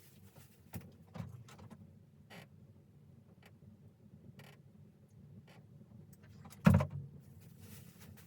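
Scattered small clicks and knocks over a low steady hum, with one much louder thump about seven seconds in.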